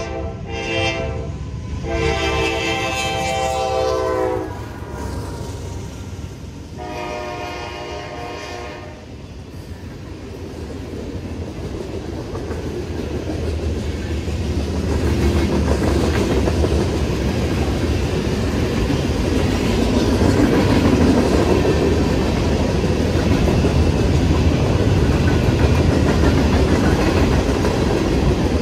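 A CSX freight locomotive's Nathan K5LA five-chime horn sounds several blasts during the first nine seconds or so. Then the passing freight cars' rumble and wheel clickety-clack build steadily louder and hold.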